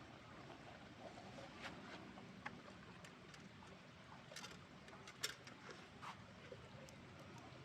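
Campfire crackling faintly, a few sharp pops scattered over a quiet, steady background, the loudest pop about five seconds in.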